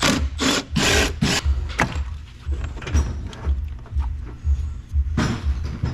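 Rasping, clattering handling of a car's plastic front-end parts as a headlight is unclipped and pulled out: several quick strokes in the first second and a half, then quieter scraping, and another burst near the end.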